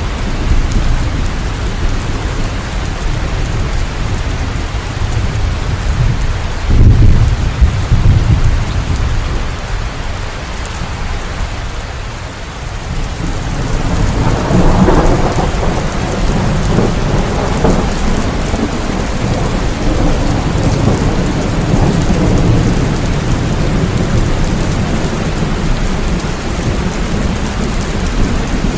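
Steady rain falling, with thunder rumbling low underneath. There is a brief loud peak about seven seconds in and a long rumble that swells about halfway through.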